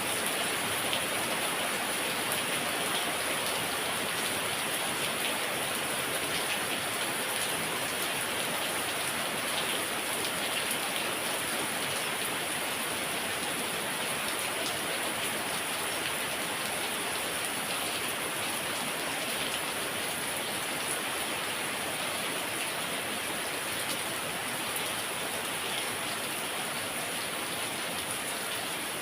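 Heavy rain falling steadily: a dense, even hiss with scattered faint ticks of individual drops.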